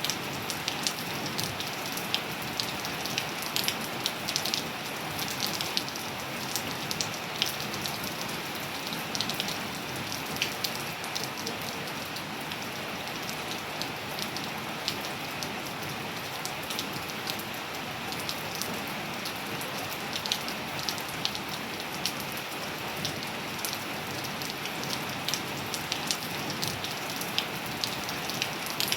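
Steady rain falling on surfaces: an even hiss with many sharp, irregular drop impacts close by.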